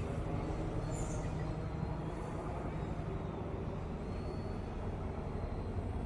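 A steady low rumble, with a faint high whine that slowly rises and falls in pitch: the small electric motors of an E110 Sentry RC helicopter in flight, changing speed with the throttle.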